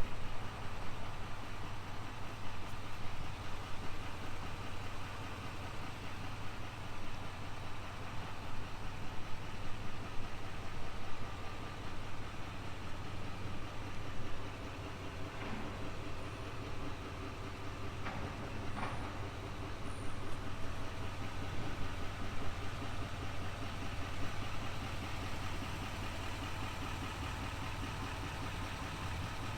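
Turbodiesel V8 idling steadily, with a few faint clicks about halfway through.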